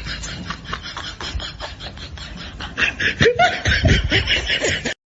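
People laughing in quick, breathy pulses that turn louder and higher-pitched about three seconds in, then cut off abruptly near the end.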